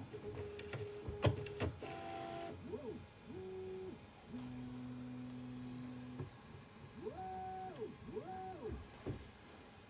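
Bambu Lab A1 Mini 3D printer homing its axes: the stepper motors whine through a series of separate moves, each a steady tone, several ramping up and back down in pitch as the head speeds up and slows, with a few clicks early on.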